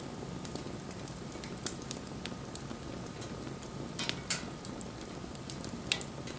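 Wood fire crackling: scattered small ticks and a few sharper pops over a steady hiss, the loudest pops about four seconds in and near the end.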